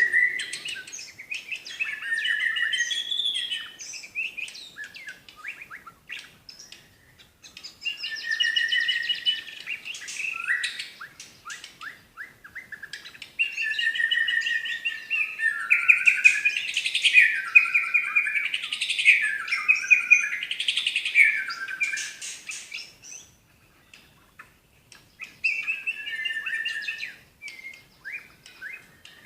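White-rumped shama (murai batu) singing in several bouts of rich whistled phrases mixed with fast runs of sharp notes, the 'tembakan' bursts, with short pauses between bouts; the longest bout runs through the middle.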